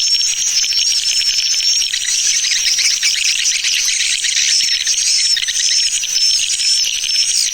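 Recorded swiftlet lure call of the 'tarik' (pulling) type: dense twittering of many swiftlets, with short, high, whistled chirps repeating over it.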